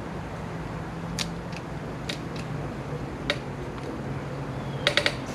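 A few sharp clicks and light taps of parts being handled during strut assembly, with a quick run of three or four clicks near the end, over a steady low hum.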